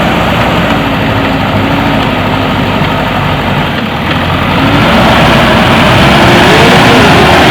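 JCB backhoe loader's diesel engine running steadily and loudly, growing a little louder in the second half.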